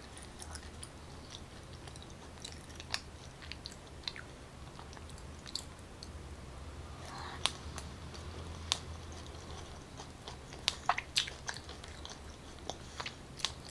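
A person chewing soft takoyaki (fried octopus-batter balls) close to the microphone, with a bite about halfway through: faint, irregular wet mouth clicks and smacks that come more often in the second half.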